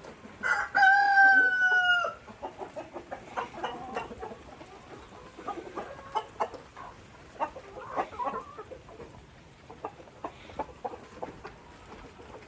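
A rooster crows once, a single long call about half a second in that lasts well over a second and sags slightly in pitch at the end. Afterwards chickens cluck in short, scattered calls.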